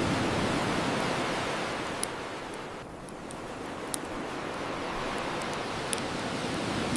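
Ocean waves washing on a shore, a steady rush that eases about three seconds in and builds again, with the sharp pops of a crackling wood bonfire, three louder ones about two seconds apart.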